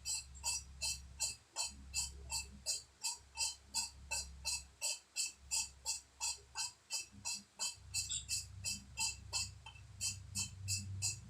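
Valve being lapped into its seat in a Honda Civic cylinder head: gritty clicks from the hand-worked lapping tool and abrasive, in an even rhythm of about four a second.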